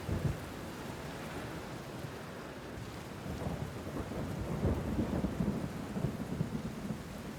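Steady rain falling, with a low rumble that swells about halfway through and eases off near the end.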